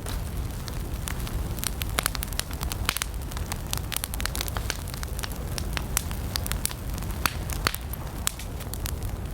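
Wood campfire burning: a steady low rumble of flames with irregular sharp crackles and pops, a few of them louder.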